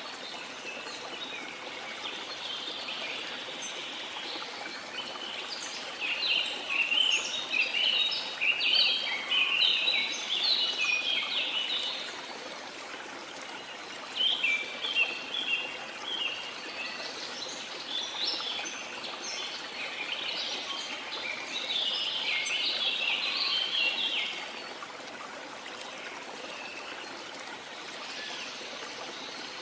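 Steady rush of a waterfall with birds singing over it in two long bouts of quick chirping phrases, the second ending a few seconds before the close.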